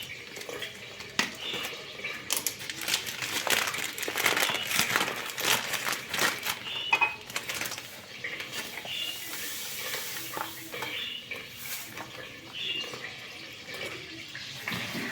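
Water running from a tap into a kitchen sink, with knocks and clinks of dishes being handled. The clatter is densest in the first half.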